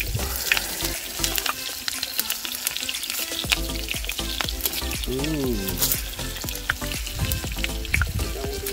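Onion slices frying in hot coconut oil in a metal pan: a steady sizzle with many small crackling pops.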